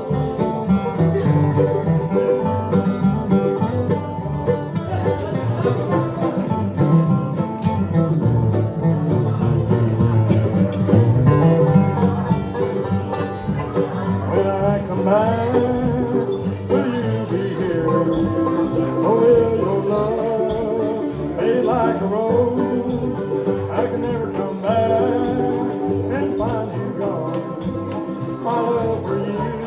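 Bluegrass band playing a tune live on acoustic string instruments, with a steady driving rhythm and busy picked melody lines.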